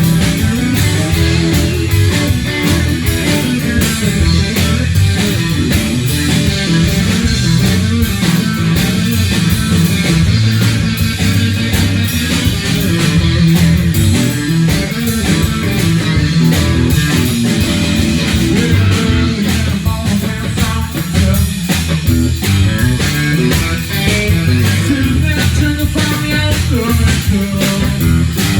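Live rock band playing an instrumental stretch: electric guitar over bass and a steady drum beat, with no clear singing.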